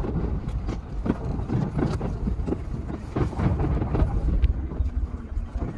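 An E233 series electric train running into a station, heard from inside the driver's cab and sped up: a steady low rumble with frequent irregular clicks and knocks from the wheels passing over rail joints and points.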